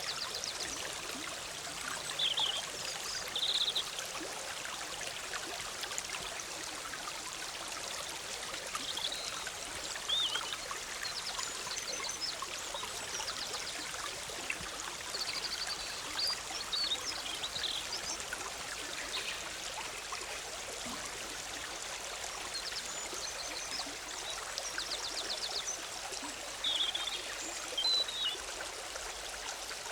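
Forest stream bubbling and rushing steadily. Songbirds call over it now and then with short high chirps and a few quick trills.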